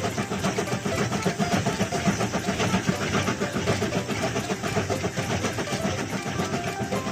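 Cartoon steam train sound effect: the train running along the track with a steady, rapid chugging rhythm.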